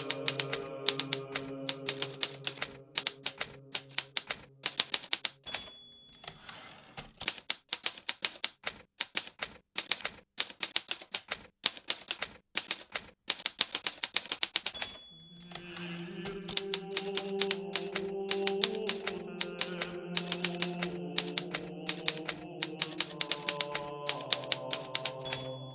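Hermes Baby portable typewriter typing in quick, uneven keystrokes, with a short bell ding three times. Soft sustained background music plays under it, dropping out between about five and fifteen seconds in.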